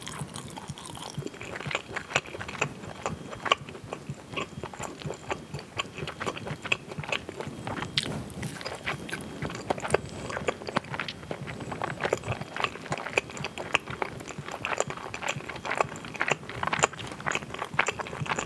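Close-miked chewing of a chewy rice-cake-filled fish cake with sliced cheese inside: wet mouth smacks and rapid, irregular little clicks throughout.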